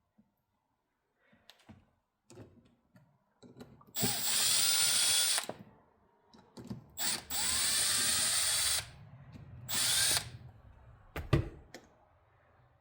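A power drill/driver runs in three short spells, spinning up each time, to back out the bolts holding the torque converter solenoid block on a 68RFE valve body, with small metal handling clicks between runs and a sharp click near the end.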